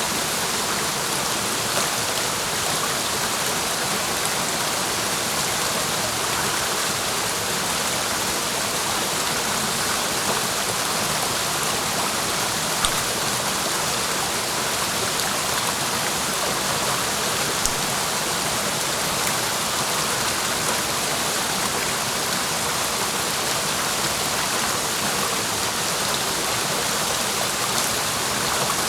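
Clear mountain stream rushing and splashing over rocks, a steady, even hiss of water.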